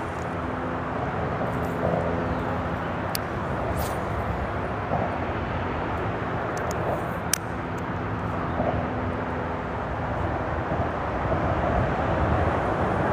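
Steady drone of freeway traffic on the bridge overhead, with a few sharp clicks, the last and loudest about seven seconds in.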